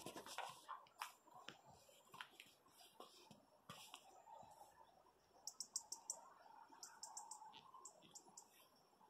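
Faint high chirps of a small bird, a quick run of short notes about halfway through, among soft scattered clicks.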